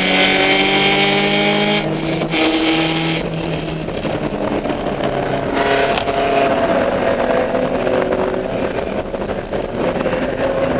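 Dodge Neon race car's four-cylinder engine heard onboard, climbing in pitch under acceleration for about two seconds. It then breaks off for a gear change and settles to a lower, steadier note, with a single sharp click about six seconds in.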